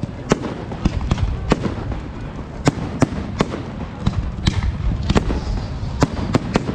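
Fireworks display: about a dozen sharp bangs and cracks at irregular intervals, over a steady low rumble.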